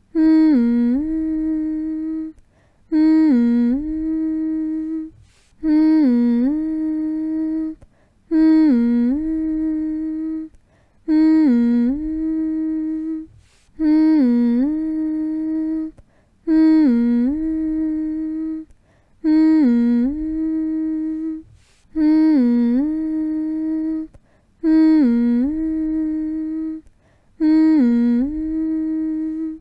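A person humming one short phrase over and over, eleven times here: each hum starts with a dip in pitch and back up, then holds a steady note. A brief pause falls between hums, about every two and a half seconds.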